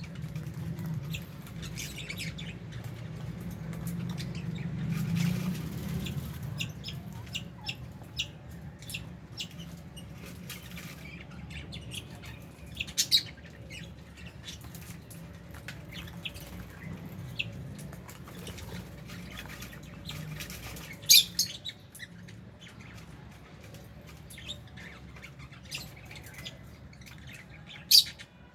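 A flock of lovebirds chattering with quick, sharp chirps and squawks, a few of them much louder, over a steady low hum.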